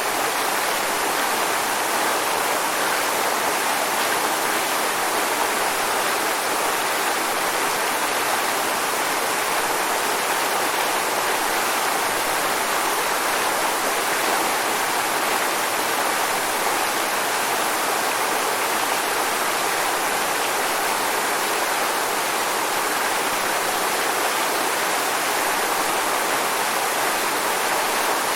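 Waterfall: a steady rush of falling water, even and unchanging, strongest in the middle and upper range with little deep rumble.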